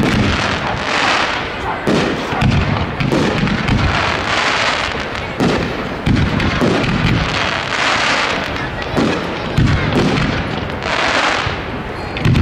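Fireworks display: a rapid, unbroken run of aerial shell booms and launches, with waves of crackling about every three to four seconds.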